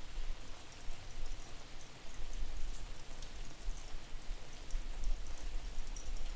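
Steady rain falling, with scattered drops ticking, and wind buffeting the microphone as an uneven, distorted low rumble.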